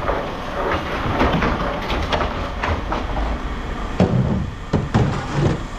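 Scrap metal clanking and clattering as pieces are handled and tossed, with sharp knocks about four and five seconds in, over a low rumble.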